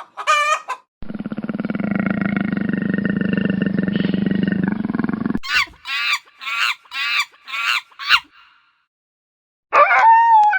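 A run of separate animal calls: the tail of a rooster crow, then one long, rough, low call lasting about four seconds, then six short high calls in quick succession, and near the end a dog starting to howl.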